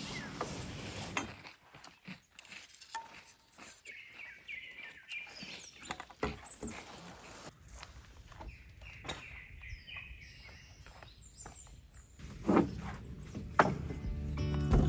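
Small birds chirping in a forest, mixed with scattered light clicks and knocks; two louder knocks near the end.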